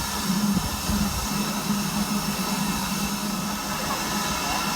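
A train at close range, with a steady low hum and a continuous hiss over it.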